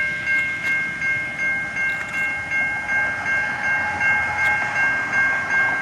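Railroad crossing bell ringing steadily at about two strikes a second, with a low rumble underneath.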